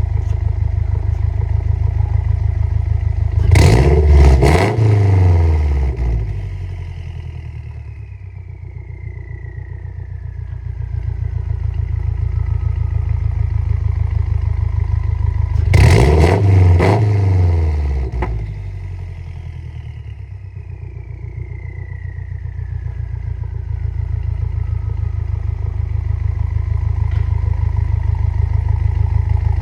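Subaru WRX (VB) turbocharged 2.4-litre flat-four idling and revved twice in quick blips, about twelve seconds apart. After each rev the turbo's whistle slowly falls as it spools down, a diesel-like turbo sound from the tuned car.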